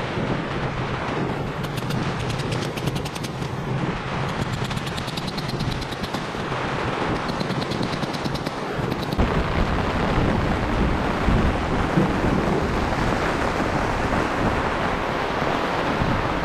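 Heavy rain beating down hard in a dense, continuous patter, with wind buffeting the microphone; the low rumble grows heavier about nine seconds in.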